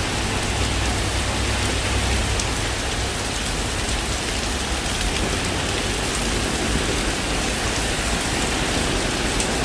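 Heavy tropical rain falling steadily onto a flooded street.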